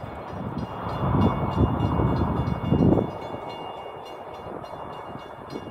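Diesel-hauled passenger train receding after passing at speed: a loud rumble of wheels on the rails that drops off sharply about three seconds in, then keeps fading.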